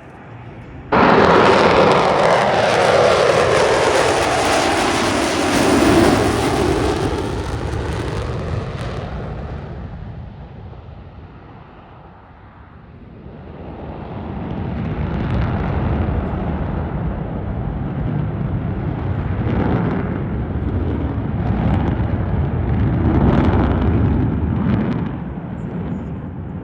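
Jet fighter, the F/A-18 Super Hornet, passing low and loud; the roar cuts in suddenly about a second in and falls in pitch as the jet goes by. It fades away near the middle, then a second roar builds up and stays loud near the end.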